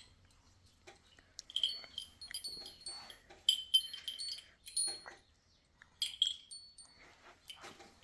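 Light metallic clinking and jingling: a series of irregular short strikes, each ringing briefly at a high pitch, in bunches about a second and a half in, through the middle, and again about six seconds in.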